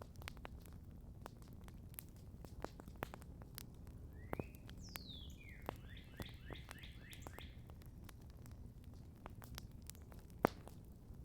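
Campfire crackling with scattered sharp pops, the loudest about ten seconds in. Midway, a songbird sings one phrase: a sweeping note followed by a fast run of about eight repeated notes.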